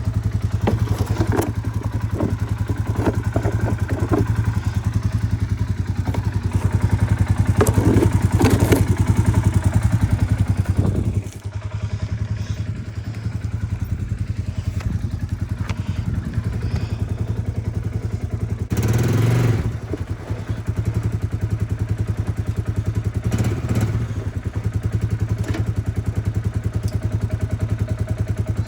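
Polaris Sportsman 570 ATV's single-cylinder engine running steadily. Scattered clattering knocks sound over it, the engine dips briefly about eleven seconds in, and a short, louder burst of noise comes about two-thirds of the way through.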